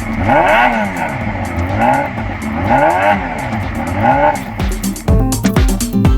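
Honda CBR250RR MC22's inline-four engine revved up and dropped back again and again, about once a second. Near the end, music with a heavy beat cuts in.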